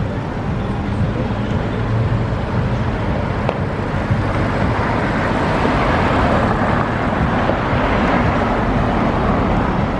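Street traffic noise: a steady wash of passing vehicles, growing louder from about halfway.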